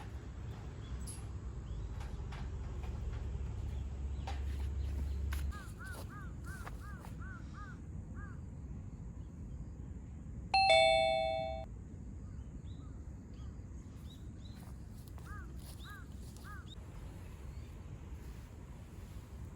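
A bird calls twice in quick series of short chirps. About halfway through, a single bell-like ding rings out, loudest of all, and fades within about a second. A low rumble underneath drops away early on, and faint scattered ticks come throughout.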